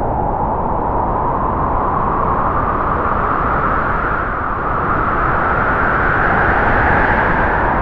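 Strong wind howling: a steady roar of rushing air with a whistling tone that slowly sinks and rises in pitch.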